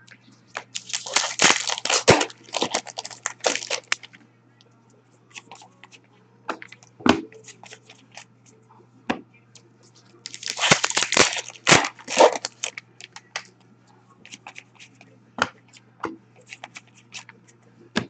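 Hockey card packs being torn open and their foil wrappers crinkled, in two bursts about a second in and about ten seconds in, with scattered clicks and rustles of cards handled in between.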